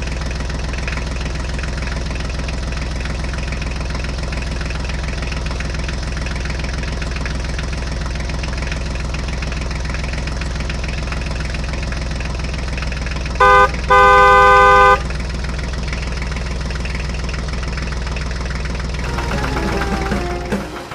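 Tractor engine running steadily. About two-thirds of the way through, a horn honks twice: a short beep, then a longer one.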